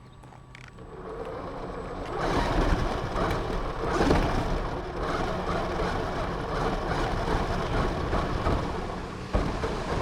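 RC car driving off, heard from its own onboard camera: motor and tyre-on-ground noise that builds about a second in and stays loud and rough from about two seconds on.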